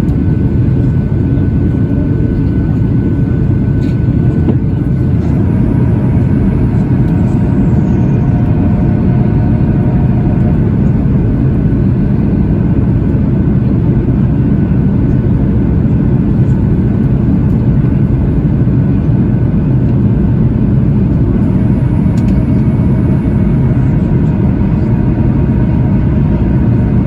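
Steady cabin noise inside a Boeing 737-800 in descent: airflow and CFM56-7B engine noise, a low, even drone with faint steady tones above it.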